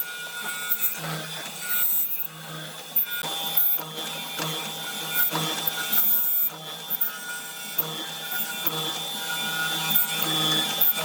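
A power tool working wood, running steadily with irregular scraping and short knocks as it cuts into the burl.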